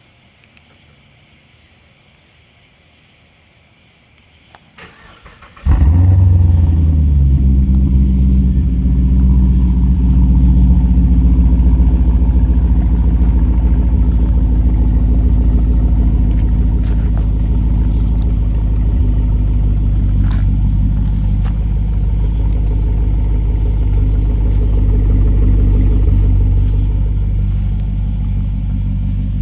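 2009 Pontiac G8 GT's 6.0-litre V8 firing up abruptly about six seconds in through a Solo Performance axle-back exhaust, then idling steadily with a deep, loud exhaust note that eases down a little near the end.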